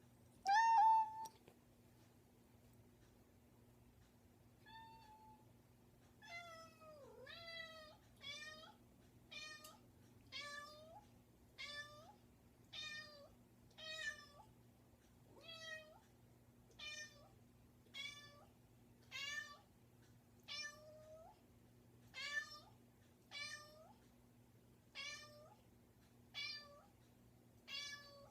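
A tabby cat meowing persistently at a closed bedroom door, asking to be let in. One loud meow comes first, then after a pause the meows go on over and over, about one a second.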